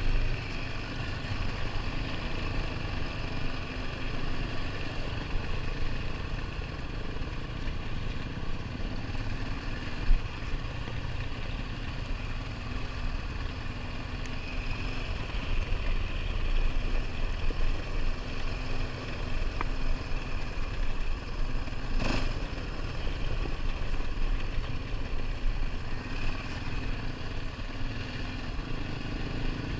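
ATV engine running steadily while riding, a low rumble with some rattle, and a single sharp knock about two-thirds of the way through.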